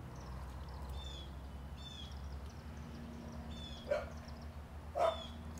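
A bird singing outdoors: short runs of quick, high, descending chirps repeated about once a second, with two louder, sharper calls near the end. A steady low hum lies underneath.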